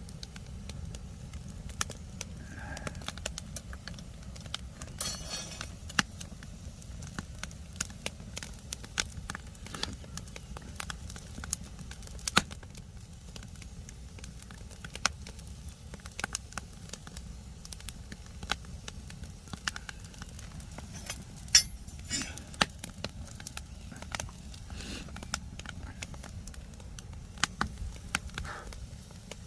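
Wood fire crackling and popping irregularly while a semi-dried sea bass grills over it, over a steady low rumble.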